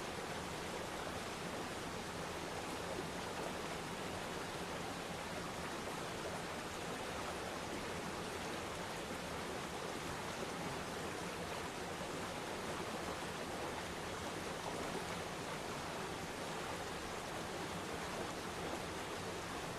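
Waterfall: water falling and rushing in a steady, even wash with no breaks or distinct splashes.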